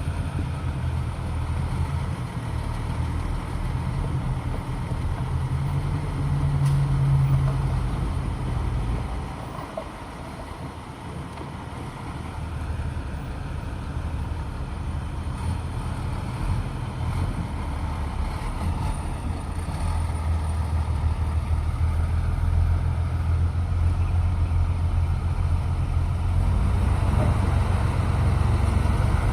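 Bulldozer's diesel engine running, rising in pitch about six seconds in, easing off and quietening around ten seconds, then building back to a steady, louder drone for the second half.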